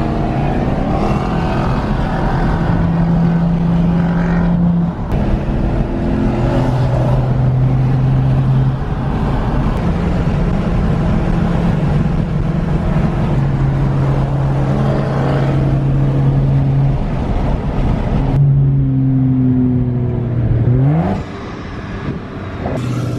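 Car engine and road noise heard while driving. The engine note holds steady for a few seconds at a time and changes pitch in steps several times, and it revs up in a rising sweep near the end.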